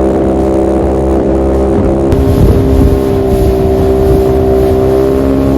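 Motorboat engine running at a steady speed, loud and even in pitch.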